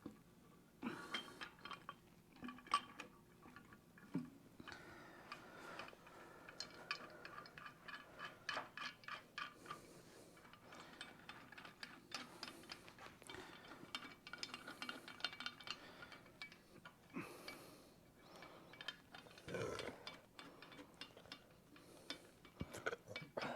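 Light, irregular metallic clinks and taps, many of them ringing briefly, from steel head bolts and the cylinder head being handled and set on an engine block as the head is lined up on its gasket and the bolts are started by hand.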